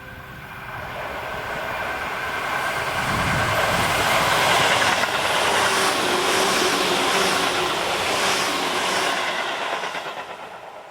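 A Tobu Noda Line electric commuter train passing: its sound builds, peaks for several seconds and fades away. The wheels clack regularly over rail joints as the cars go by.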